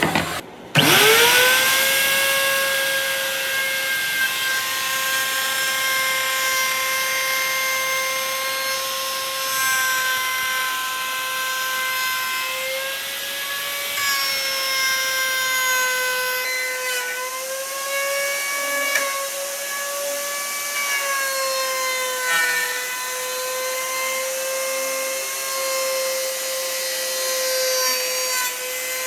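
A handheld electric power tool spins up under a second in, its motor rising quickly to a steady high whine. It then works the wood with a rough grinding rasp over the whine, the pitch sagging slightly now and then as it takes load.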